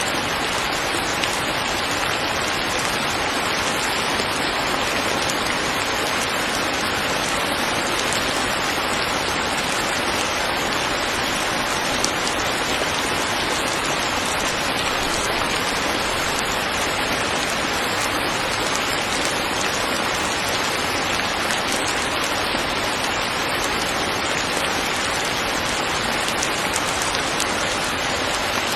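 Rain falling steadily: an even, unbroken hiss of drops with no let-up.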